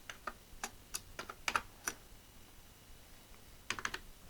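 Keys being pressed on an Atari 65XE's rubber-cup membrane keyboard: a quick run of about a dozen clicky keystrokes over the first two seconds, a pause, then a few more near the end. The keys are being tried out after a repair of the keyboard membrane.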